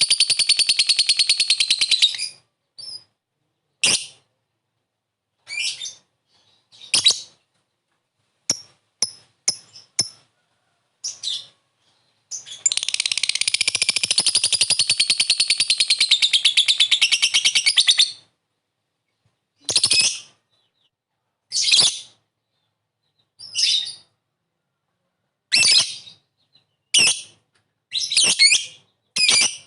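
Lovebird calling: a long, fast, evenly pulsed high chatter (the 'ngekek') at the start and again for about five seconds in the middle, with short sharp chirps in between and in a quickening series near the end.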